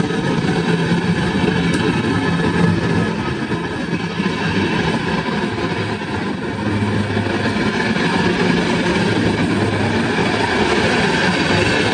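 A train passing close by: a steady rumble and rattle of wheels on the rails, with a low hum underneath.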